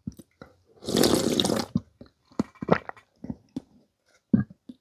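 A loud slurp of clam noodle soup lasting about a second, followed by a run of short clicks and taps from eating.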